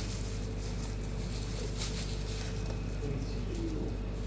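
Steady low hum with a faint voice or call gliding briefly past about three seconds in, and a few light clicks.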